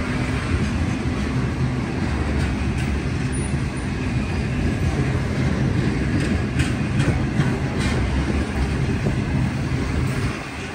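Freight train wagons rolling past, a steady low rumble with a few sharp clicks from the wheels, easing slightly near the end.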